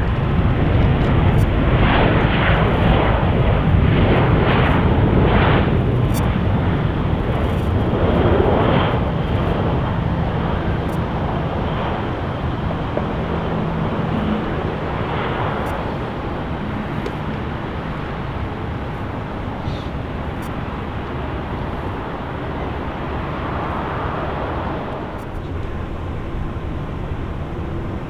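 Jet airliner's engines, a heavy rumble that is loudest for the first few seconds and then slowly fades as the aircraft moves away.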